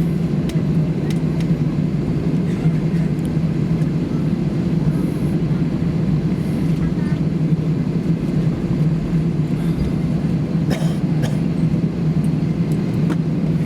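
Steady low drone of cabin noise inside an Airbus A320 on the ground after landing, with a few faint clicks.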